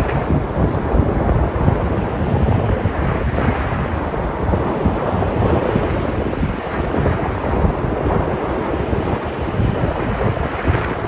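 Sea surf washing and breaking on the shore in a steady wash with gentle swells, with wind buffeting the microphone.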